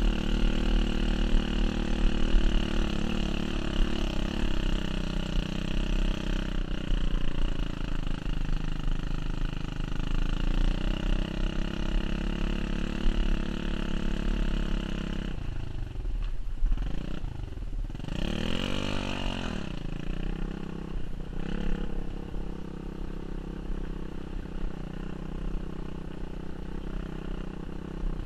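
Pit bike engine running under riding, mostly steady, then easing off about halfway through and giving one rev that rises and falls before running on quieter.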